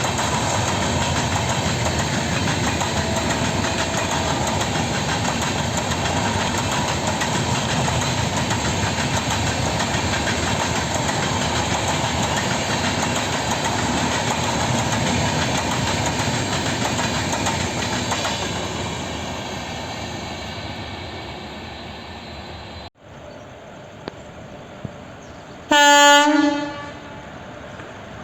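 Train running on the track, a loud steady rumble of wheels and cars that fades away over the last third. After a brief break, a single short train horn blast sounds near the end and is the loudest sound.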